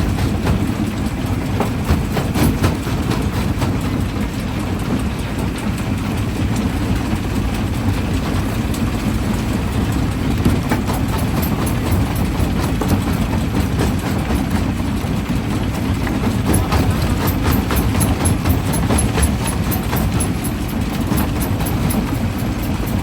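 Primary jaw crusher running with a steady low rumble, rock cracking and clattering in its jaws in a rapid run of sharp knocks that is busiest in the second half.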